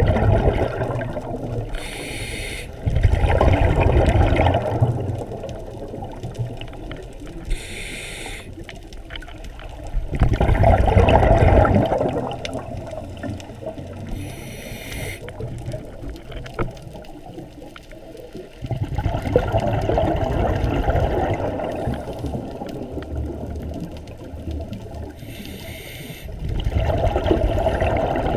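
Scuba diver breathing through a regulator underwater: a short hissing inhalation is followed each time by a longer, louder rush of exhaled bubbles, in a slow cycle of about four breaths.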